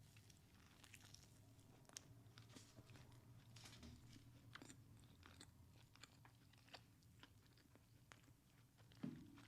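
Close-miked chewing, with crisp crunches and small wet mouth clicks coming irregularly throughout. A louder bite or click comes near the end.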